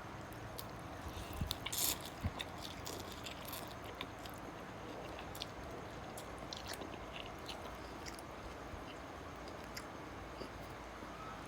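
A person chewing and eating noodles, with scattered small clicks and crackles over a steady background hiss.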